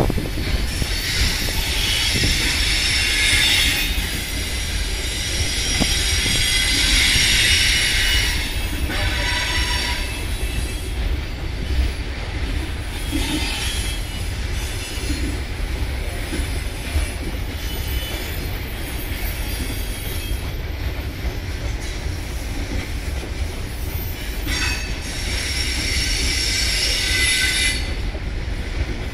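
A long train of freight wagons rolling past with a steady low rumble, the wheels squealing high-pitched for the first eight seconds or so and again near the end.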